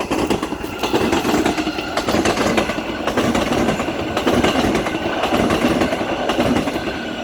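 Electric multiple-unit passenger train running past, made of two coupled sets, with a steady rush of traction and air and a rapid clatter of its wheels over the rail joints.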